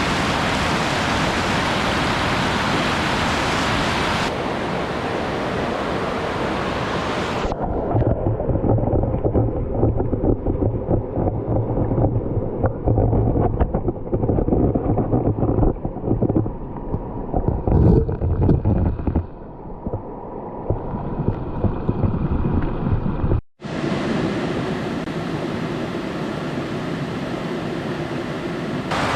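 Steady rushing noise of a waterfall at the start and end. In the middle it gives way to a duller stretch full of small clicks and knocks, with a louder clatter around the middle. There is a brief cut-out before the waterfall rush returns.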